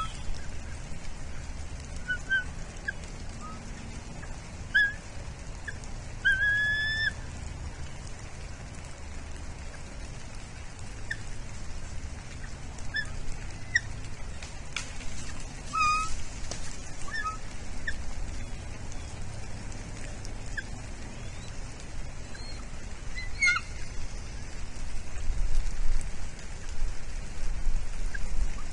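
Bald eagles calling: scattered short, high chirping calls, a few of them longer slurred notes, over a low steady rumble.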